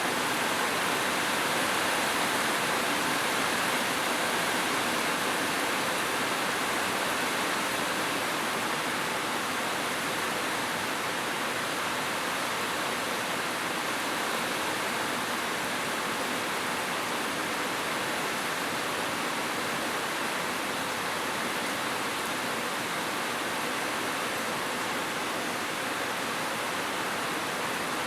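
Heavy rain falling steadily on a roof, an even unbroken hiss with no thunder.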